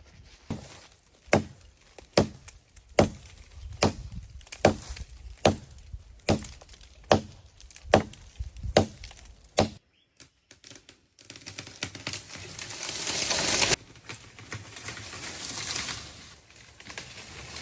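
Axe chopping wood: about a dozen sharp, evenly paced strikes, a little under one a second. After a brief gap comes a swelling noisy scrape with no distinct blows.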